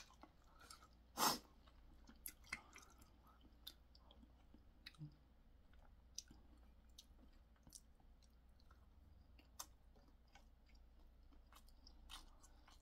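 Close-up chewing of chewy spicy boneless chicken feet, with soft scattered mouth clicks and smacks and one louder short noise about a second in.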